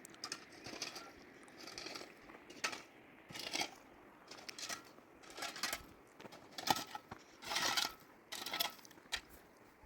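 Irregular short scraping and crunching sounds, about one a second, with quieter rustling between them.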